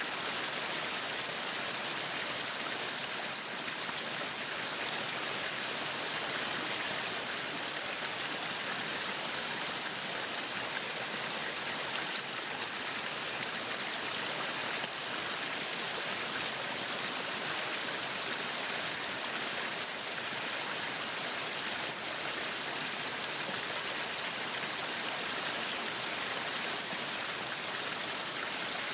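Meat sizzling steadily on a yakiniku grill, an even crackling hiss.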